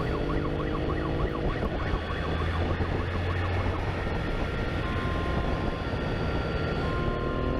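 Police motorcycle siren sounding a fast warbling yelp, then two short steady tones, over the steady drone of a motorcycle engine and road noise during a pursuit.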